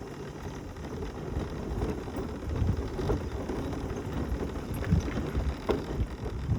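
Mobility scooter driving over a rough lane: a steady rumble from the tyres and body, with a few knocks and rattles as it goes over bumps, and wind buffeting the microphone.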